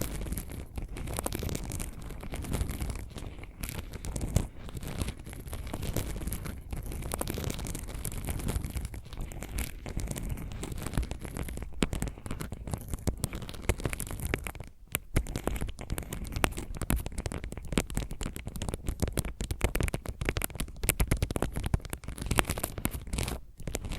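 Close-miked ASMR fingernail scratching and tapping, several trigger recordings layered together: a dense run of fast scratches and sharp clicks, broken twice by short pauses.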